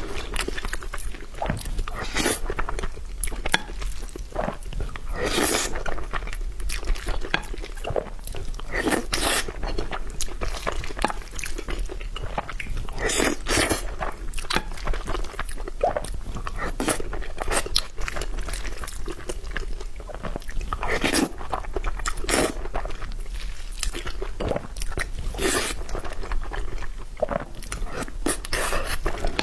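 A person eating spicy noodles and fried tendon: biting, chewing and crunching, in short sharp strokes at an irregular pace.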